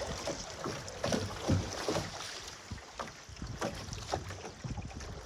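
Canoe being paddled in strong wind: irregular splashes and light knocks of the paddle over the water, with wind noise on the microphone.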